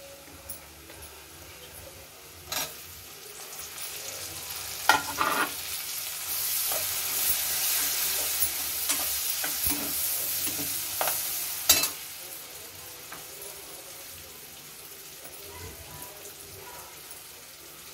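Soyabean and cabbage frying in oil in a kadhai as chopped tomatoes go in and are stirred with a slotted spatula. The sizzle swells through the middle and dies down after about twelve seconds, with a few sharp knocks of the spatula against the pan.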